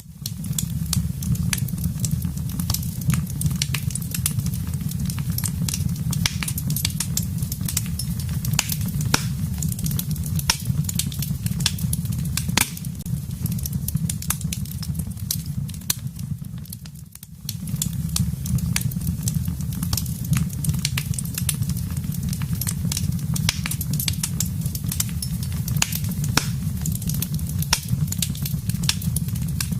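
Wood fire burning in a fireplace, crackling and popping in dense, irregular snaps over a low steady rumble. The sound drops away briefly about seventeen seconds in, then resumes.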